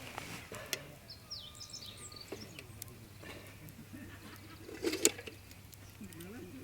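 Birds chirping, with a few sharp clicks and one louder knock about five seconds in.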